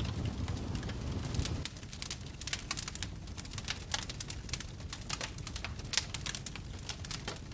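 Wood fire crackling in a fireplace, with frequent irregular sharp pops and snaps. A low rumble of flame runs under it for the first second and a half or so, then drops away, leaving mostly the crackles.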